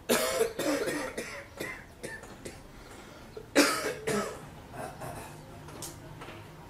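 A man coughing hard in two fits: a quick run of coughs at the start and another loud cough about three and a half seconds in, followed by a few weaker ones.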